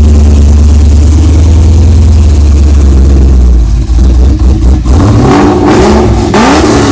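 Cammed Chevrolet Camaro SS 6.2-litre V8 with catless headers and a straight-piped exhaust, running loud and steady, then revving from about four seconds in, its pitch climbing over the last two seconds.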